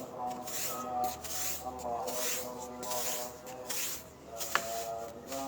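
Repeated scraping swishes, roughly one a second, over steady background music.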